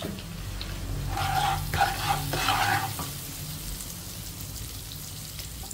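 Minced garlic sizzling in hot oil in a wok, stirred with a wooden spatula. A run of louder scraping strokes comes between about one and three seconds in, then it settles to a steady frying sizzle.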